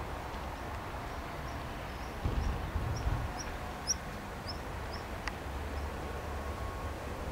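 A small bird chirping a run of short, high notes, about two a second, over a steady low rumble that swells briefly a couple of seconds in. A single sharp click comes about five seconds in.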